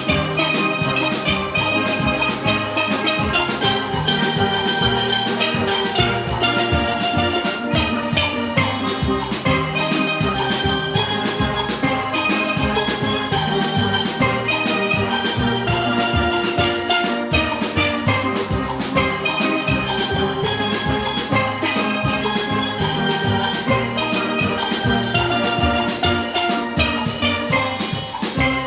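A youth steel orchestra playing: many steelpans sounding melody and chords, with bass pans and a drum kit keeping a steady rhythm.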